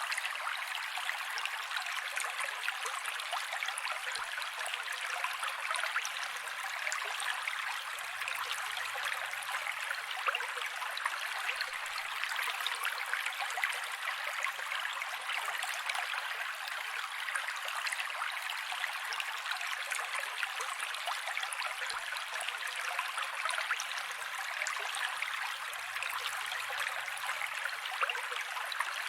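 Mountain creek water rushing and splashing over rocks in a steady, even hiss with no low rumble.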